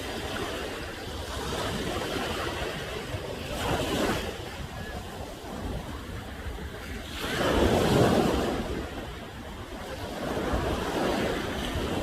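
Ocean surf breaking on the shore at high tide, the wash swelling and ebbing in waves, loudest about eight seconds in, with wind rumbling on the microphone.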